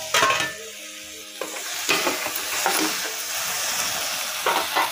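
Chopped tomatoes sizzling in hot oil and fried masala paste in a kadai, with a metal spoon scraping them from a steel bowl and stirring them in. The spoon knocks and scrapes near the start, around two seconds in and near the end.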